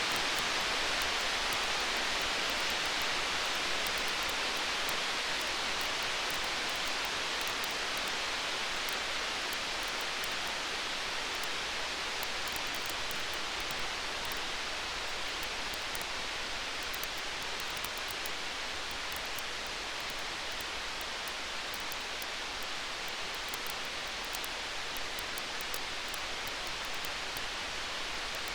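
Wood fire crackling with many small sharp pops over a steady, even hiss of storm noise.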